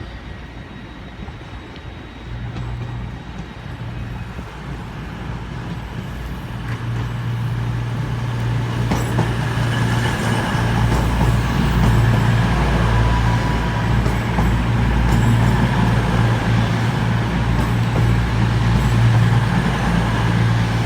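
CrossCountry Class 220 Voyager diesel multiple unit pulling into the platform, its diesel engines growing steadily louder over the first ten seconds and then holding a steady low hum.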